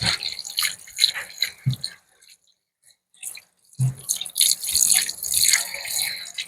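Cold tap water running and splashing into a kitchen sink as raw steak is rinsed under it. The sound drops out for about two seconds and then resumes.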